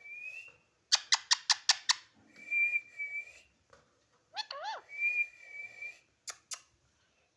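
Pet parrot calling: a few held, level high whistles, a quick run of about six sharp chirps about a second in, a short rising-and-falling squawk near the middle, and two brief clicks near the end.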